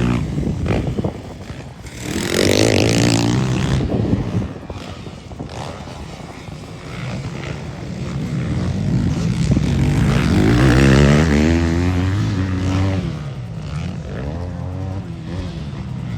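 Motocross dirt bike engines revving hard and falling away as the bikes ride past, with the pitch rising and dropping through the throttle. The sound swells loudest about two seconds in and again from around ten to twelve seconds.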